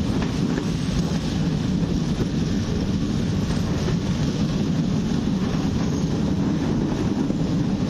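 Passenger express train running along the track, a steady rumble and rush from the moving coach.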